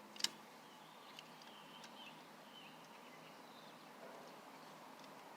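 Quiet outdoor ambience with faint, wavering high-pitched bird calls, and one sharp click about a quarter second in, followed later by a few fainter ticks.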